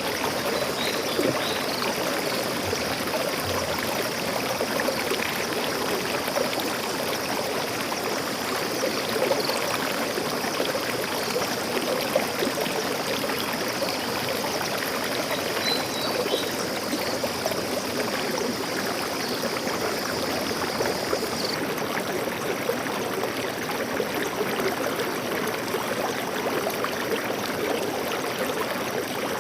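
Stream water flowing steadily, a continuous even rush and trickle.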